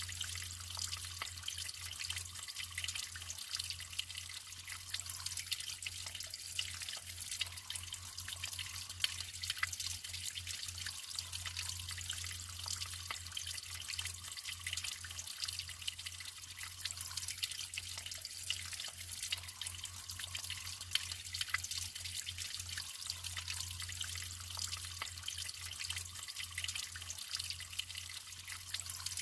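Natural running water trickling and splashing steadily, a dense patter of small splashes, over a faint steady low hum.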